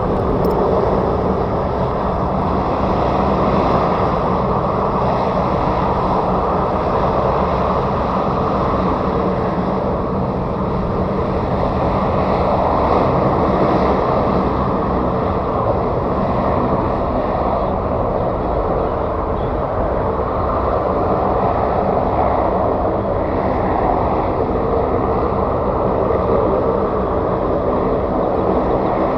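Aircraft engines running steadily and loudly, a heavy rushing noise with a low steady hum underneath that holds even throughout.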